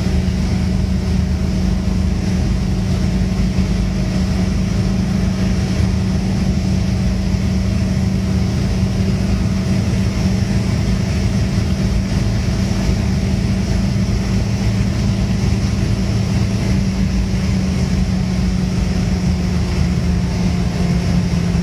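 1985 Tofaş Doğan's four-cylinder petrol engine running hard and steady at motorway speed, with road and wind noise. The pitch dips slightly near the end.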